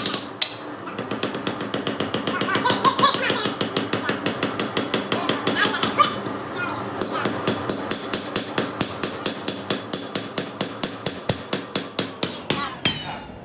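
Hand forging hammer striking steel on an anvil in a rapid, steady rhythm, about four blows a second, with the steel ringing. The blows stop just before the end.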